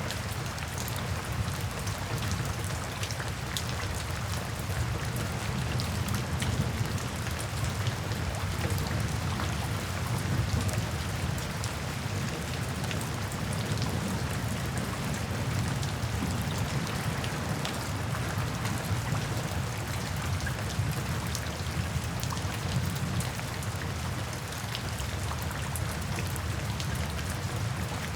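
Steady rain falling into puddles and standing water, with many separate drop impacts over a constant wash and a steady low rumble underneath.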